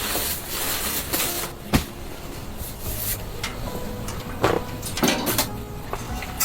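A few sharp knocks and clatters of things being handled, the loudest about two seconds in and again past the middle, over a steady rushing background.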